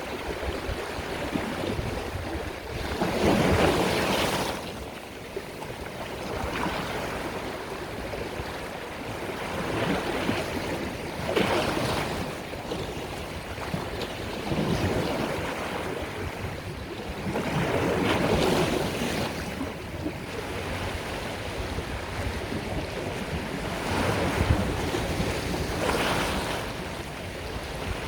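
Sea waves breaking on the shore, swelling and washing in every few seconds, with a steady rush in between and some wind on the microphone.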